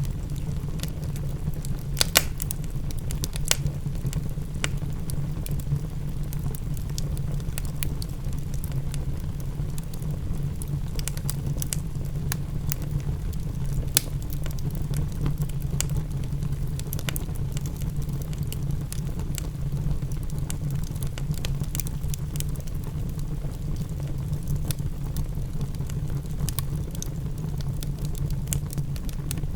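Wood fire crackling, with scattered sharp pops (the loudest about two seconds in and near the middle), over a steady low rumble of rain.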